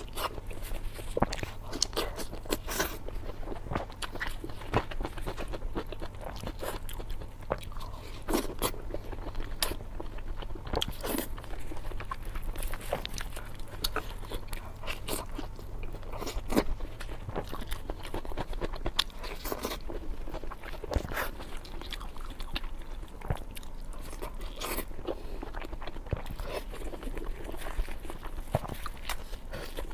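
Close-miked eating sounds: crunchy bites and chewing, with many sharp crunches coming irregularly in quick succession.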